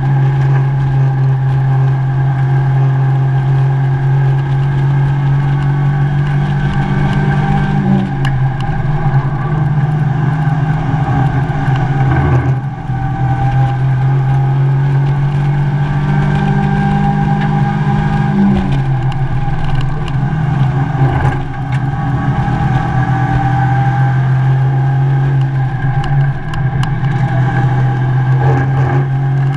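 Mazda MX-5 race car's four-cylinder engine heard from inside the cockpit, running hard under load on track. The note dips briefly a few times, around 12 seconds in, at about 21 seconds, and near the end.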